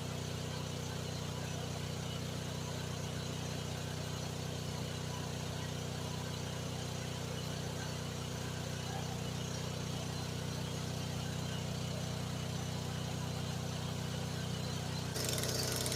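GroundHog KH14G mini excavator engine running steadily. Near the end the sound jumps up suddenly, with a harsher hiss added on top.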